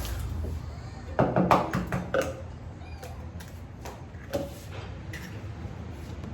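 Eggs being cracked against a bowl for cake batter: a cluster of sharp knocks and clinks about a second in, then a couple of lighter knocks.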